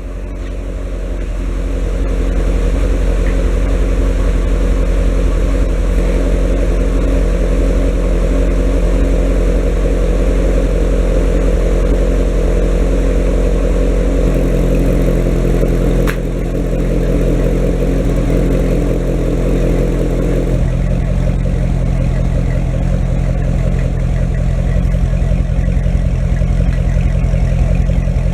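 2006 Corvette V8 idling through NPP bi-mode mufflers as the vacuum is released from their valves. The exhaust gets louder over the first couple of seconds as the valves open, then settles into a steady, fuller idle whose tone shifts a little partway through.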